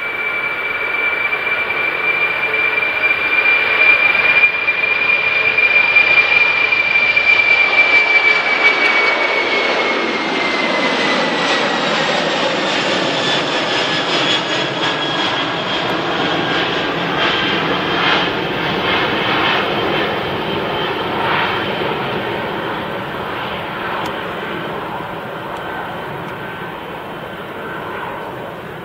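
Boeing 747-400 freighter's four jet engines at high power as it departs, a loud whine that holds steady and then falls in pitch about ten seconds in as the jet passes, followed by a rumbling jet roar that slowly fades as it moves away.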